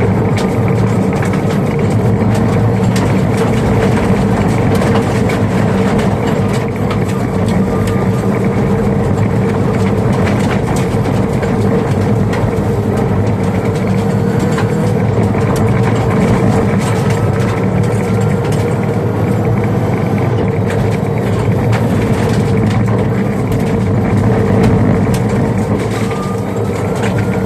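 Subaru Crosstrek rally car driven at speed on a gravel stage: steady engine, drivetrain and road noise, with scattered sharp clicks of gravel hitting the car.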